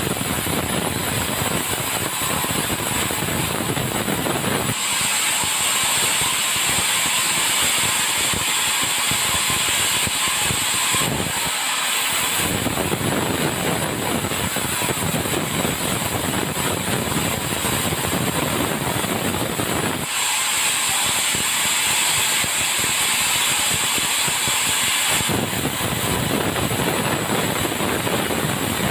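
Swing-blade sawmill running continuously while sawing hardwood logs. The noise switches abruptly a few times between a fuller, deeper sound and a thinner hiss.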